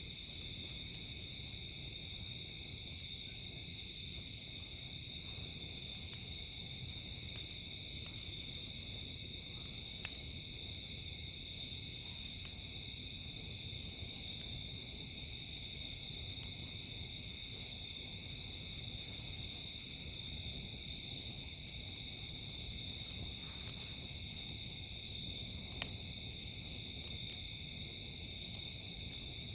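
A steady, shrill chorus of insects with a pulsing high trill above it, over a low rumble, and a few sharp pops and cracks from a crackling campfire.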